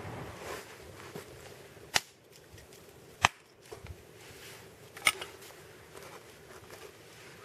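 Log fire of a Swedish torch ("candle" campfire) burning, with sharp crackles: three loud pops spread over a few seconds and a few smaller ones between them.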